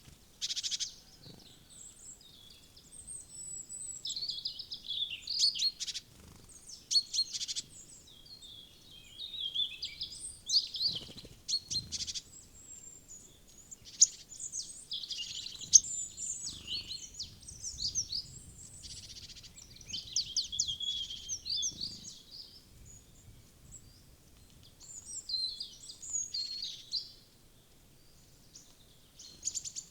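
Small woodland songbirds chirping and calling at a feeder, with many short, high calls overlapping in irregular bursts. A couple of sharp taps stand out about halfway through.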